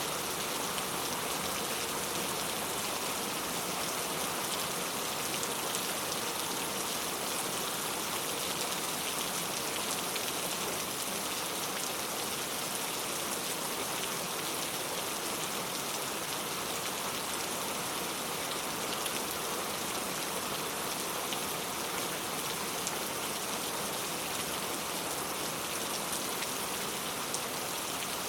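Heavy rain falling, a steady even hiss of drops that keeps up without a break.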